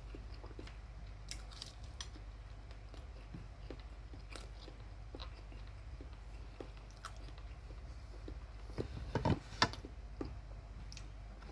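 Chewing crispy fried chicken skin: soft, scattered mouth clicks and small crunches over a low steady hum, with a louder run of crunchy bites about nine seconds in.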